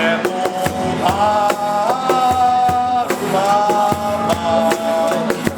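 A band playing a song: a drum kit keeps a steady beat under guitar, with a long held melody line that slides between notes.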